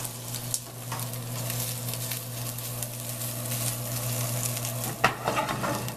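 Chicken pieces sizzling in a frying pan while a slotted spatula stirs and turns them, over a steady low hum. There is a sharp knock about five seconds in.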